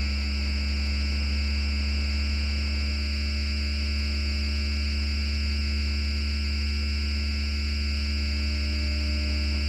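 Steady electrical hum inside an FGV Class 4200 Bombardier Flexity Outlook tram: a strong deep hum with several fixed higher tones over it, holding the same pitch throughout with no rising or falling inverter whine.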